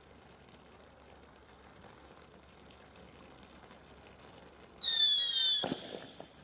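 A firework whistling shrilly for just under a second, its pitch falling slightly, then ending in a sharp bang whose rumble dies away within about half a second. Before it, only faint outdoor background.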